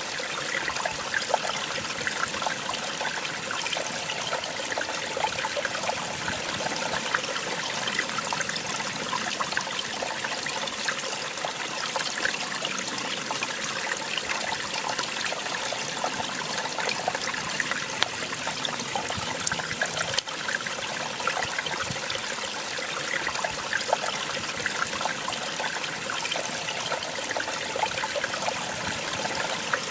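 Small waterfall splashing and gurgling steadily, with small splashes all through.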